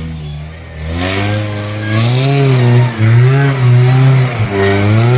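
A vehicle engine revving up and down over and over, its pitch rising and falling about once a second, getting louder about a second in.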